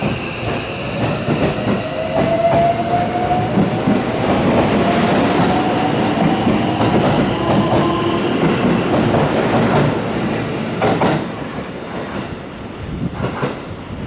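Electric commuter train pulling out and accelerating, its traction motor whine rising steadily in pitch over the wheels clattering on the rail joints, then fading after about ten seconds. Two sharp knocks near the end.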